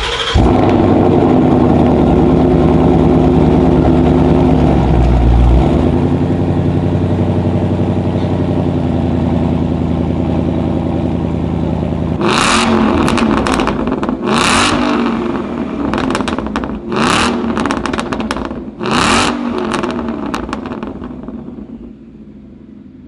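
Supercharged 5-litre V8 of a Shelby Mustang Super Snake, with a Borla exhaust, catching on a cold start and settling into a steady fast idle. In the second half it is revved sharply about five times, with crackle from the exhaust. It then drops back to idle and fades near the end.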